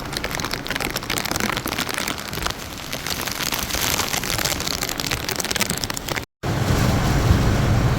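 Heavy hurricane rain falling hard, a dense patter of drops, from a tropical rain band rated at 3 to 4 inches an hour. About six seconds in the sound cuts briefly and gives way to a low rumble of wind buffeting the microphone.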